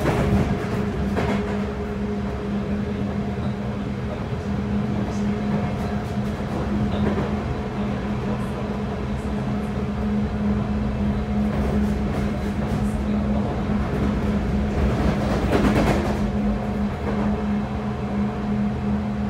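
Interior running noise of a Sotetsu 8000-series electric train car under way: a steady low hum over a constant rumble of wheels on rail, with a few sharp knocks and a louder rushing swell about three-quarters of the way through.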